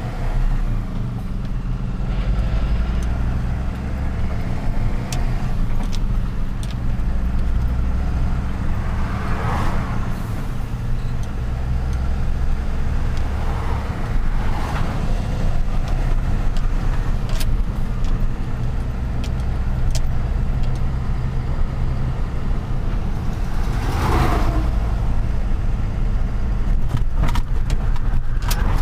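Truck engine running with a steady low rumble and road noise while driving, with a few brief rushing swells of hiss.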